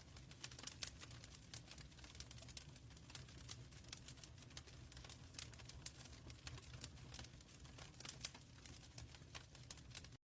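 Wood fire burning in a fireplace: irregular crackles and small pops over a low steady rumble. The sound cuts off suddenly near the end.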